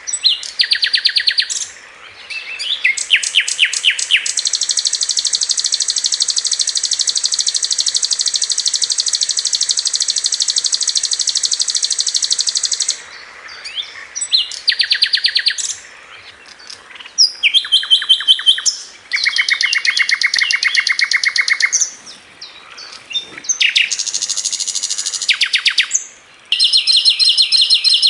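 Sikatan londo flycatcher singing in rapid high-pitched trills, the fast 'tembakan' bursts. One unbroken trill lasts about nine seconds, and shorter trilling phrases follow with brief pauses between them.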